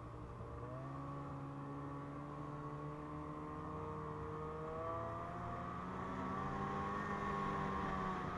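Two-stroke twin engine of a Ski-Doo MXZ 600 Carb snowmobile running under way, its pitch stepping up about a second in and then climbing gradually as the sled speeds up.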